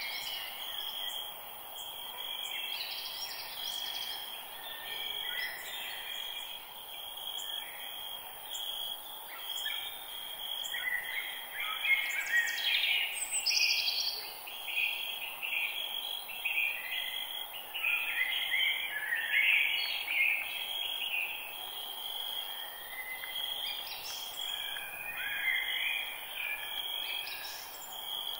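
Forest birdsong: several birds chirping and calling on and off, with short falling whistles, over a steady high-pitched insect drone and a constant hiss.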